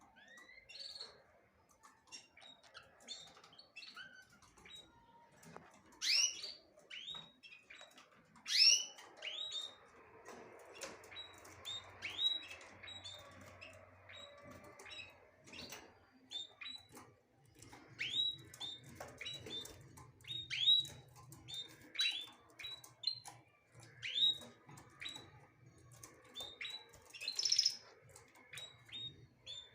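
Small birds chirping: a steady stream of short, sharp chirps that sweep downward, some in quick runs, with the loudest calls about six and nine seconds in and again near the end.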